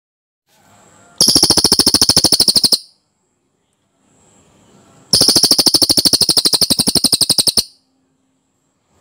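Cililin bird singing two loud, dense rolling trills of rapidly repeated notes, the first about one and a half seconds long and the second about two and a half, each led in by faint, soft chatter.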